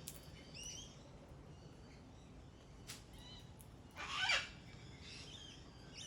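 Pale-headed rosella calling: short rising chirps near the start, then a louder call that slides down in pitch about four seconds in, with a few sharp clicks between.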